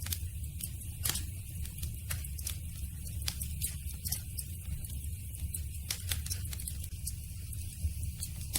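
Wood campfire crackling: irregular sharp snaps and pops over a low, steady rumble, with a couple of louder pops about a second in and around six seconds in.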